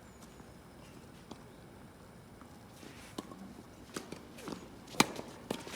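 Tennis ball and footsteps on a hard court: a few light knocks and shoe scuffs in the second half, then one loud, sharp pop of a tennis ball about five seconds in.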